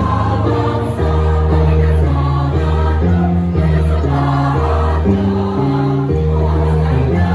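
High school choir singing in several-part harmony, holding chords that change every half-second to second.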